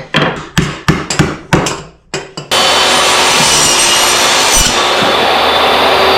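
A quick run of knocks on wood, then a power saw starts abruptly about two and a half seconds in and runs steadily, cutting scrap wood for a birdhouse roof.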